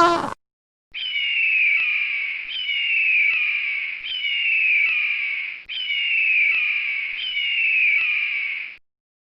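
A bird calling: a whistled note that starts sharply and slides down in pitch, repeated five times at an even pace, each call about a second and a half long.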